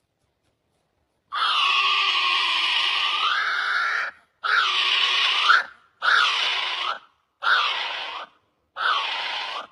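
Kiwi calling: one long, shrill, harsh call of nearly three seconds, then four shorter calls of about a second each, evenly spaced. Each call rises and falls in pitch.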